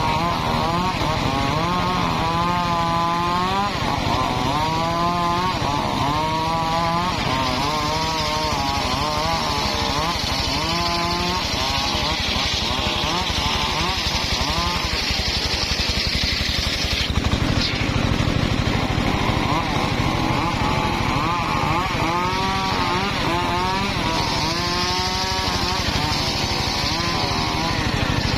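Engine-driven circular sawmill cutting timber: the motor's pitch keeps dipping and recovering every couple of seconds as the blade takes load in the wood, over a steady hiss of the cut.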